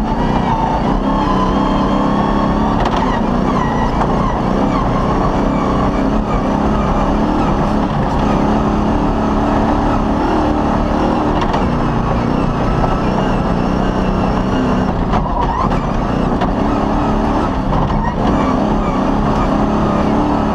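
Cross-country rally car's engine running hard, heard from inside the cockpit, its pitch rising and falling as the car drives over a dirt track.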